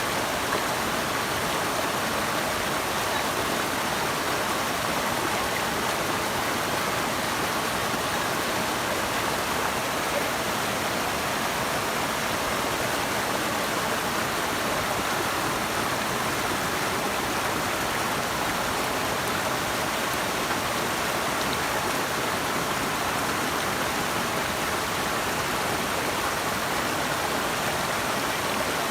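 Rushing water, a steady unbroken noise that stays even throughout.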